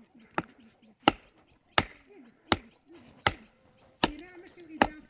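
Heavy chopping strikes in a steady rhythm, about one every three-quarters of a second, seven in all.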